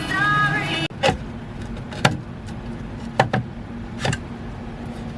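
A song cuts off abruptly, then a series of sharp knocks and clicks, roughly one a second, over a steady low hum.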